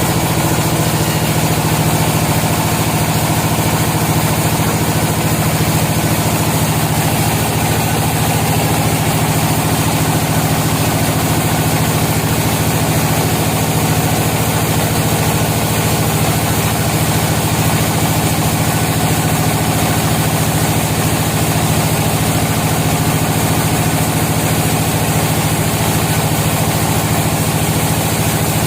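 Sawmill machinery running steadily, a loud, even engine-like hum that holds the same pitch throughout with no sign of a cut starting or ending.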